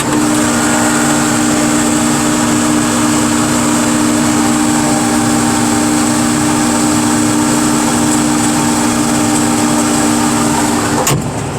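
Car crusher's engine and hydraulic pump running steadily while crushing, a loud drone with several steady tones, heard from inside the operator's cab through a small open window. It cuts off suddenly near the end.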